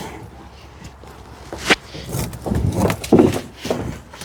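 A sharp click, then a run of irregular clunks and scrapes of handling work.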